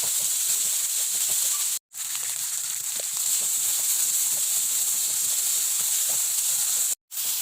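Food frying in hot oil in a pan, a steady sizzle that breaks off twice for an instant.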